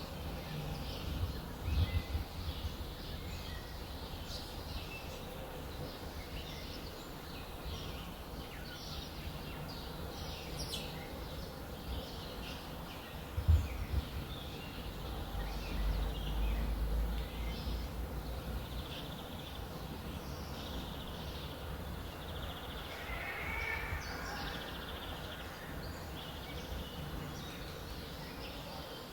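Many small birds chirping and twittering in a steady dawn chorus. A low rumble swells a few times beneath it, most sharply a little before halfway and longest just after.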